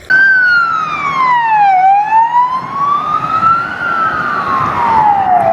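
Police siren wailing in slow sweeps: the pitch falls over about two seconds, climbs back up over the next two, then falls again. It starts and cuts off abruptly.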